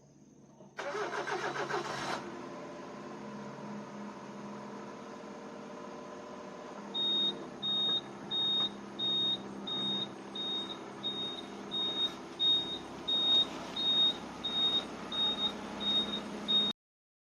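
A car engine is cranked and catches, then settles into a steady idle. From about seven seconds in, a single high warning chime from the vehicle beeps about one and a half times a second over the idle, until the sound cuts off suddenly.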